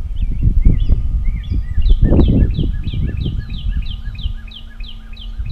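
A songbird singing a fast series of repeated, downward-sliding whistled notes, about three a second, starting about two seconds in. Under it, a loud, gusty low rumble of wind on the microphone.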